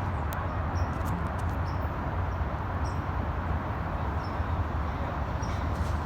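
Steady low outdoor rumble with a few faint, short high chirps and clicks scattered through it; no horn sounds.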